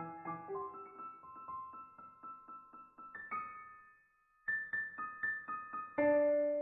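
Background piano music: a quick string of repeated notes, a brief break about four seconds in, then a held chord near the end.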